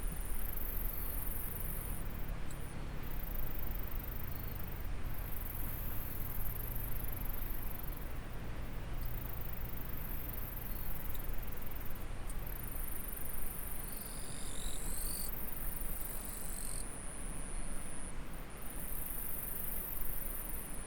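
Insects trilling in a steady, high-pitched drone over the even rush of a flowing stream. A brief chirping call joins about two-thirds of the way in.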